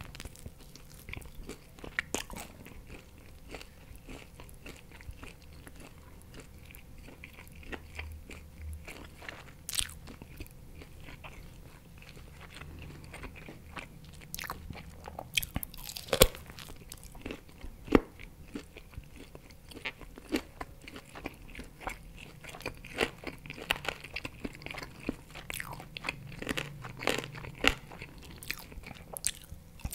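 Close-miked eating of barbecue pork ribs: biting meat off the bone and chewing with the mouth closed. Many small sharp clicks run throughout, with a few louder ones a little past the middle.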